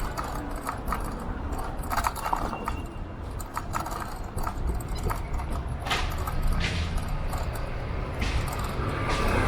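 Wind buffeting the microphone on a moving electric scooter, with light rattles and clicks from the scooter over the road surface and a few brief swells of rushing noise.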